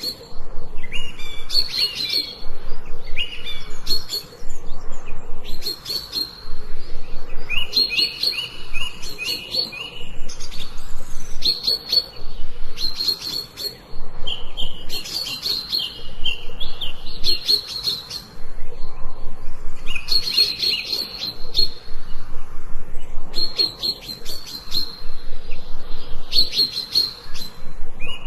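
Songbirds chirping: bursts of rapid, high chirps repeated about every two seconds, with short pauses between phrases.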